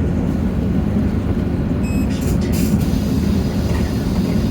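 Hino J08E-VN inline-six diesel of a city bus running steadily, heard from inside the bus. About two seconds in there is a brief high electronic beep, then a short burst of hiss.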